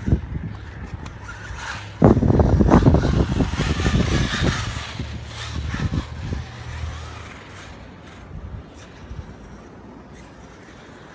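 Brushless electric RC monster truck driving through snow, loud for a few seconds from about two seconds in and then fading, with wind buffeting the microphone.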